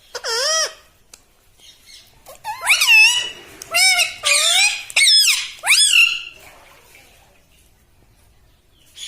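Pet ring-necked parrot calling: one short warbling squawk at the start, then a run of several warbling calls that swoop up and down in pitch from about two and a half to six seconds in.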